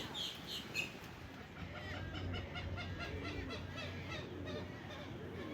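Wetland birds calling: a few sharp chirps at first, then a quick run of evenly repeated clucking notes.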